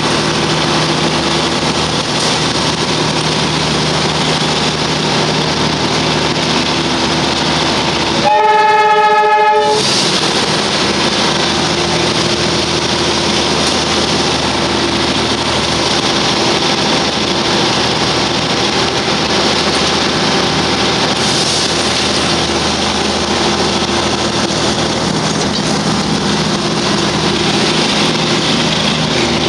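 Darjeeling Himalayan Railway toy train running, a steady rattle and rumble of the wheels and coaches heard from on board. About eight seconds in, the train sounds one horn blast lasting about a second and a half.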